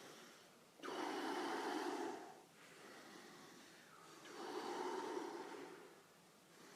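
Wim Hof Method power breathing: two loud, forceful breaths about three and a half seconds apart, with softer breathing between.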